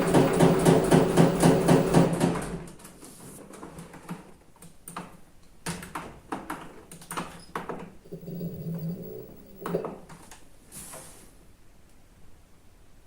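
Washing machine motor and drum running with a rhythmic pulsing hum, about four pulses a second, that stops about two and a half seconds in. Scattered clicks and knocks and two brief low hums follow as the machine pauses.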